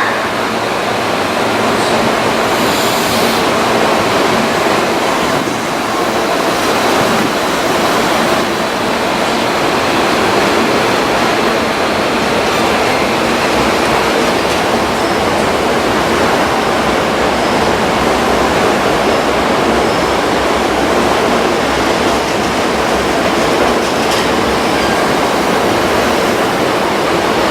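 Hankyu 1000 series electric train moving past, giving a loud, steady noise of wheels on rails and running gear.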